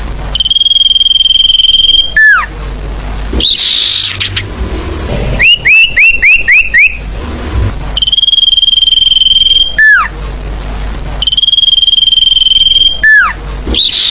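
Recorded sirfu song played as a bird lure: a long, steady high whistle ending in a downward-sliding whistle, a short raspy note, then a quick run of about six chirps, the phrase repeating over and over.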